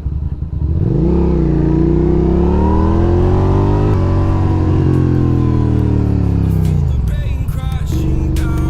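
Suzuki SV's V-twin motorcycle engine pulling away under throttle, its pitch rising for a few seconds and holding. About six to seven seconds in it drops as the bike slows, then settles to a lower steady run.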